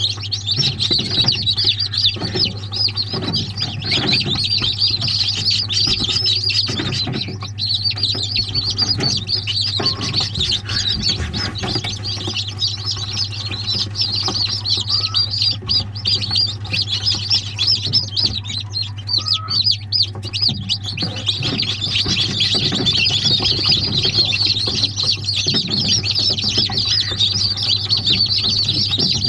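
A flock of chicks cheeping continuously in a dense, high-pitched chorus, thinning for a while mid-way and filling back in near the end. A steady low hum and occasional soft knocks run underneath.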